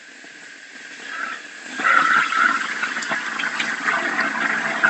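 Steady rushing of water, swelling and growing loud about two seconds in.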